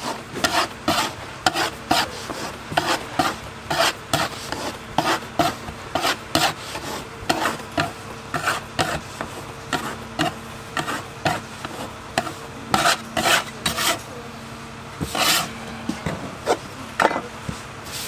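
Dough being rolled and worked by hand on a work surface: quick rubbing, scraping strokes about two a second, with a short pause near the end, over a faint steady hum.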